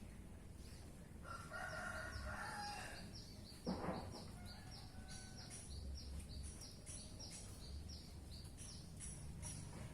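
Greater green leafbird (cucak hijau) singing a quick run of high, falling notes, about four a second. A rooster crows in the background during the first few seconds, and a brief sharp sound comes near the middle.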